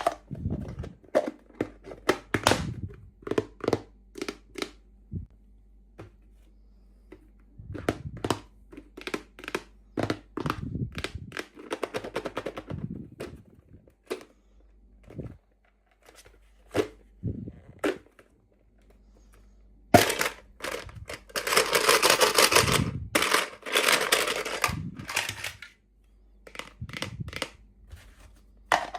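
Miniature toys and their plastic packaging being handled during unboxing: scattered clicks and taps, then about five seconds of packaging rustling starting around twenty seconds in.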